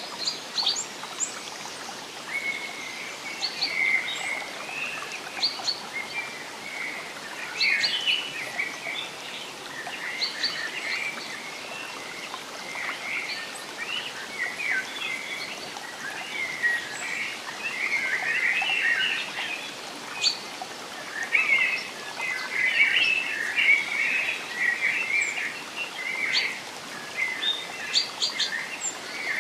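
Forest songbirds chirping and trilling, many short calls overlapping throughout, over a steady soft hiss of background noise.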